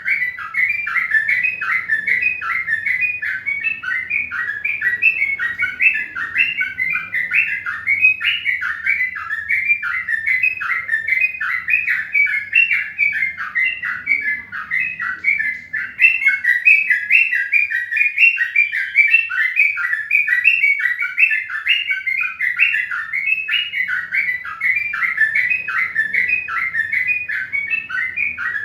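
Birds chirping continuously, a rapid, unbroken run of short high chirps.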